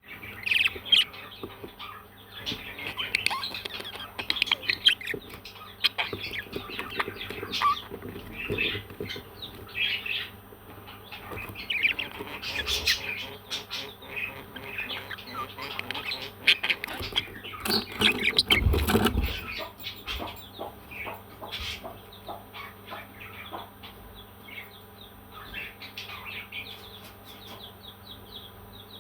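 Parrots chirping and squawking in many short, quick calls, with a louder noisy burst about eighteen seconds in.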